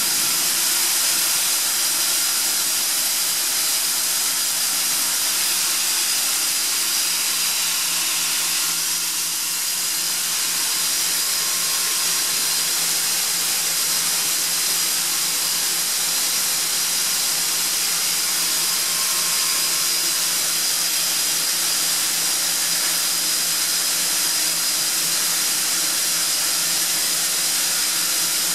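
Atlas Copco ZT 90 VSD FF oil-free rotary screw air compressor running steadily: a loud, even hiss with a few steady whining tones through it.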